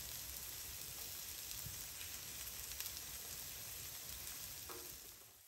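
Sausage and onion slices frying in a skillet, a steady sizzling hiss that fades away near the end.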